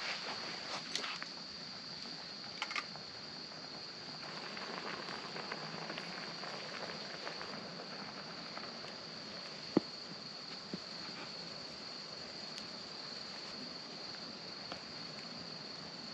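Insects, likely crickets, singing in a steady high-pitched chorus. A few small clicks and knocks come through early on, and one sharp click about ten seconds in.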